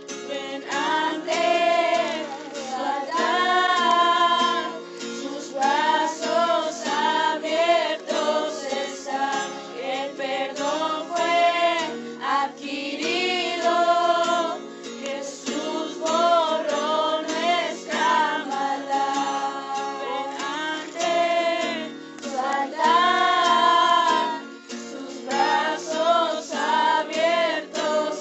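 Voices, mostly female, singing a worship song to strummed acoustic guitar.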